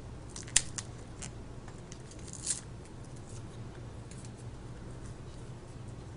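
Small tool scraping and picking broken screen glass off a smartphone's metal mid-frame: scattered small clicks and scratches, with a sharp click about half a second in and a longer scrape about two and a half seconds in, over a faint steady hum.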